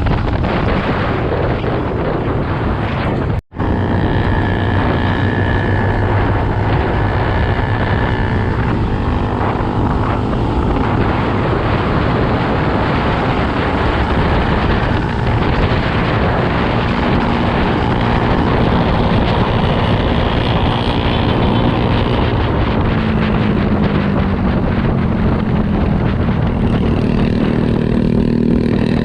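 Motocross bike's engine running under way, its pitch drifting up and down, with heavy wind rush on the microphone. The sound cuts out for a moment about three and a half seconds in.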